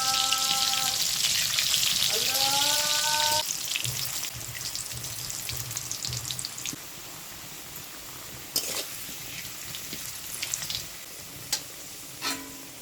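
Potato frying in hot oil in a kadai: loud sizzling for the first few seconds, then settling to a quieter crackle with a few sharp clicks.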